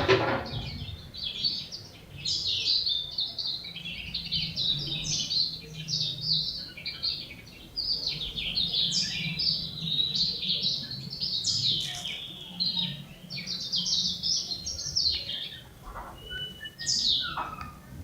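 Young songbird, about a month and a half old, singing a long run of rapid, twittering chirps with brief pauses, over a faint low hum.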